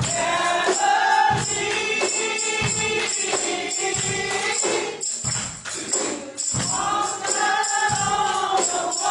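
Gospel choir singing with a tambourine shaking along, over a low beat that lands about every second and a quarter.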